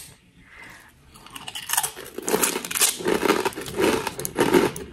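Crisp fortune cookie being chewed, a run of irregular crunches starting a little under two seconds in.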